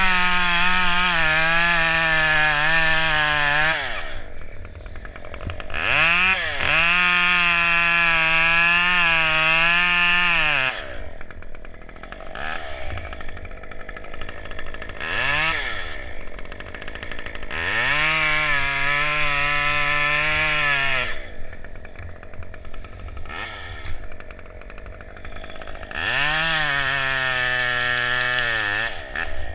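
Two-stroke chainsaw running at full throttle in four long bursts of several seconds each, its pitch dropping to idle between them, with a few short blips of the throttle while idling.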